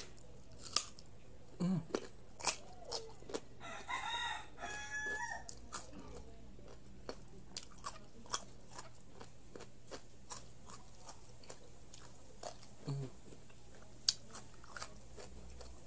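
Crisp biting and chewing of raw carrot sticks: a long run of sharp, irregular crunches. A rooster crows in the background about four seconds in.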